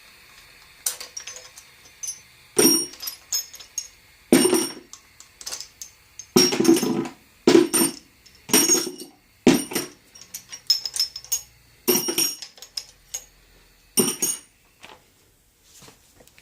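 Loose metal engine parts and hand tools clinking and clattering as they are handled and set down during the teardown of a small-block Chevy 350: about a dozen sharp metallic clinks at irregular intervals, each with a short ring, fewer toward the end.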